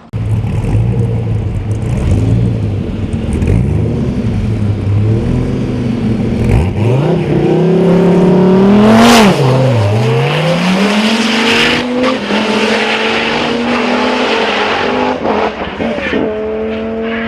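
Sports car engine being driven hard, its note repeatedly climbing and falling as it revs, with a steep climb to a peak about nine seconds in and a sharp drop and recovery just after.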